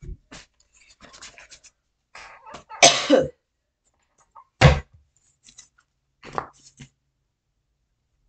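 A person coughing: a loud cough about three seconds in and a second, sharper one just under five seconds, with soft scattered clicks and rustles around them.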